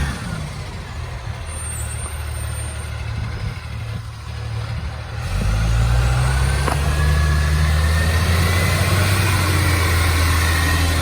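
Garbage truck's diesel engine with a large exhaust leak. It runs quieter at first, then about five seconds in comes back loud under load, with a faint rising whine above the low engine note.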